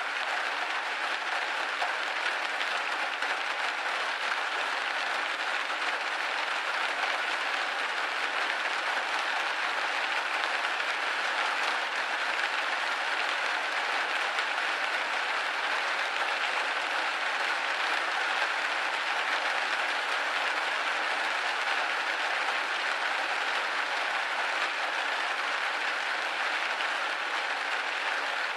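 Steady rain pattering on a window pane, a dense even patter with no low rumble.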